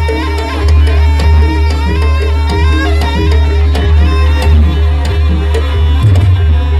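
Jaranan Buto ensemble music: rapid hand-drum (kendang) strokes under a wavering reed melody, over a heavy, steady bass. It plays loudly throughout.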